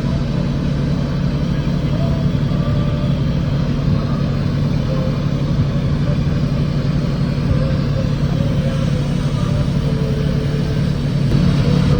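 A steady, unbroken low mechanical drone, with faint voices in the background.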